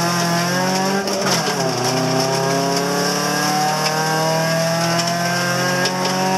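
Rally car engine accelerating hard, heard from inside the cabin. The revs drop briefly about a second in, then climb steadily through the rest of the pull.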